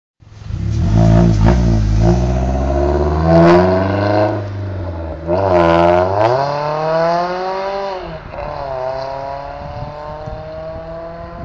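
Scion tC's four-cylinder engine heard through its exhaust, revving. It runs steadily at first, gives a quick rev up and back down about five to six seconds in, then its pitch climbs slowly near the end.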